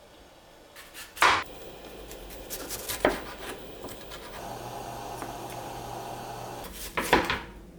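Kitchen food-prep sounds: scraping and rubbing of utensils, with three sharp knocks and a steady hum for about two seconds in the middle.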